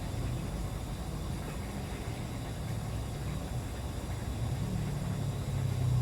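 A steady low hum, like a motor running, that swells slightly near the end.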